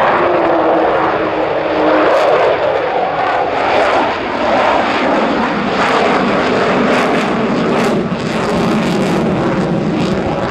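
Avro Vulcan bomber's four Rolls-Royce Olympus jet engines, loud and steady through a continuous noisy rush as the aircraft flies its display. A faint falling tone shows in the first second, and crackling spikes come and go through the second half.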